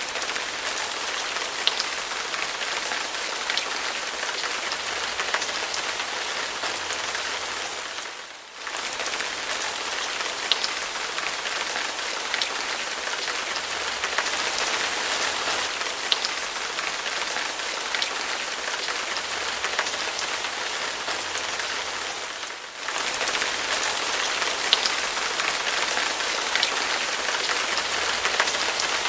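Steady rain falling, a dense even hiss with scattered single drops ticking more sharply. The rain fades out briefly and comes back twice, about a third of the way through and again about three quarters through.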